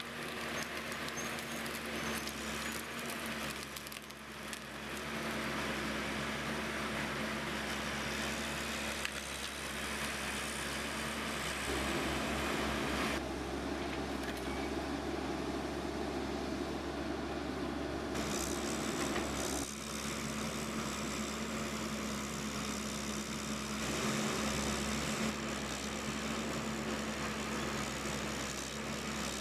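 A machine's engine running steadily with a constant hum, the sound changing abruptly a few times.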